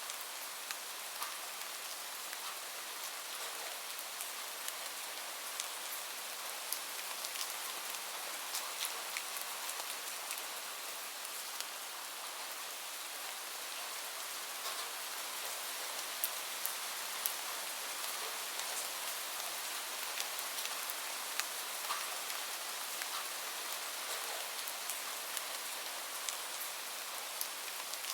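Steady rain, an even hiss, with scattered sharp ticks and clicks throughout.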